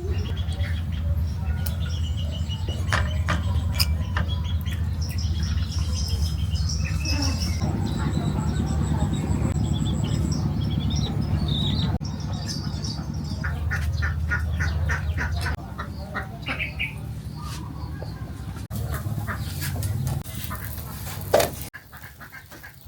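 Birds calling, with chicken-like clucks and squawks in short bursts, over a steady low rumble. A sharp knock comes near the end.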